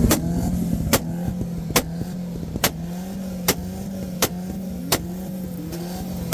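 Mercedes 190E's 2.0-litre M102 four-cylinder engine running steadily while its exhaust fires sharp bangs about every 0.8 seconds, eight in all, as it shoots flames.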